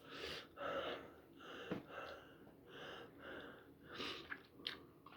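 A man breathing hard and gasping in a string of quick, breathy in-and-out breaths, panting against the burn of an extremely hot chilli curry. A few short clicks come near the end.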